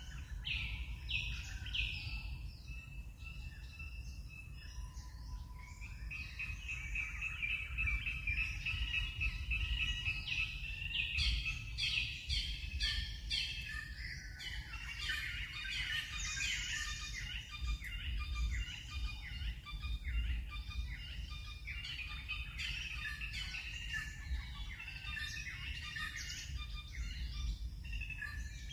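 Birds chirping, many short calls repeating almost without pause, over a low steady rumble.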